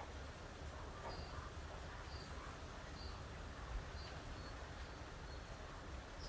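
Faint bird chirping outside: short, high double chirps repeating about once a second, over a low steady background rumble.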